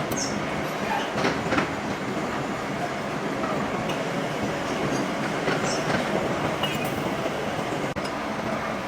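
Steady running noise of machine-shop machinery, with a few faint metallic clinks, and a brief drop near the end where the sound cuts.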